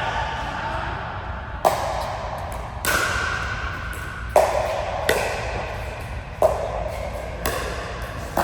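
A series of sharp hits in a match rally, seven strikes landing irregularly about once every second, each with a short ring in a large hall.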